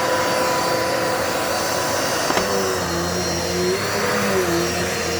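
Dirt Devil Multi-Surface vacuum cleaner running with a steady hum. About two and a half seconds in there is a click, after which the motor's pitch shifts and wavers.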